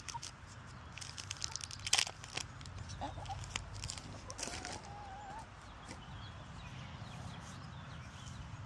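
Poultry clucking close by, with one short drawn-out call about four and a half seconds in. Scattered sharp clicks and crinkles, loudest about two seconds in.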